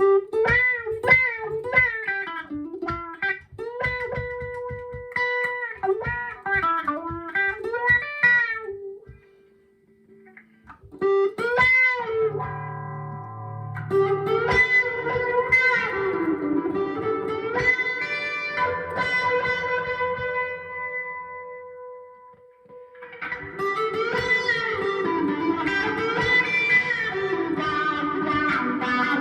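Clean electric guitar (Squier Classic Custom Telecaster) through a Vox AV15 valve amp's clean channel with a Dunlop Cry Baby wah pedal, the wah rocking the tone up and down over picked notes and held chords. The playing pauses briefly about nine seconds in and again near twenty-two seconds.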